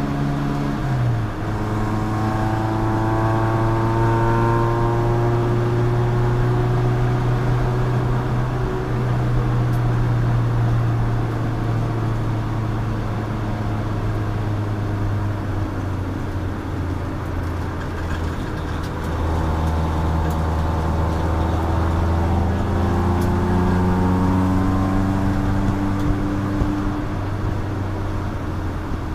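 Chump Car endurance race car's engine running hard on track, its pitch dropping sharply about a second in, then climbing slowly, easing off around the middle and climbing again in steps after about two-thirds, with steady road and wind noise underneath.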